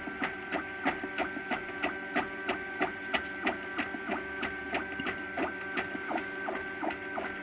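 MakerBot Thing-O-Matic FDM 3D printer printing. Its stepper motors whine in steady tones that switch pitch as the print head changes moves, with regular clicks about three times a second.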